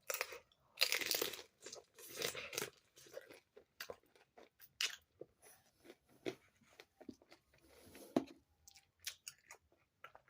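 Close-up chewing of a fried crab rangoon, the crisp wonton wrapper crunching in irregular bites. The crunches are loudest and thickest in the first few seconds, then thin out into softer chewing.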